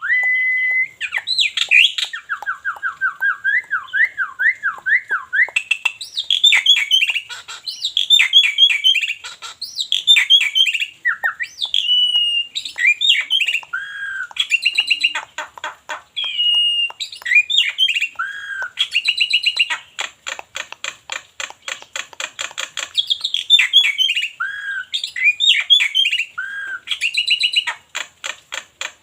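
Black-winged myna (jalak putih) singing a loud, varied song. It opens with a held whistle and a fast wavering trill, then runs through strings of rapidly repeated notes and harsh squawky calls with short pauses.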